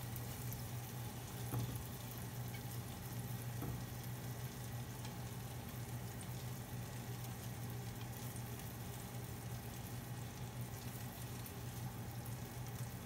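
Egg-and-flour-coated chicken breast pieces sizzling faintly in a lightly oiled frying pan, over a steady low hum, with a soft tap about one and a half seconds in.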